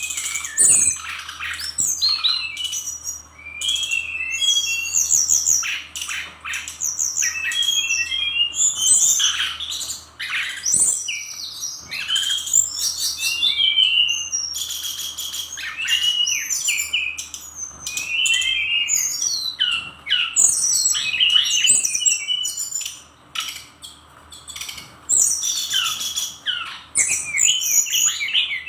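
Fulvous-chested jungle flycatcher singing a rapid, varied song of high whistled phrases and fast trills, nearly without pause, with a short lull about three quarters of the way through.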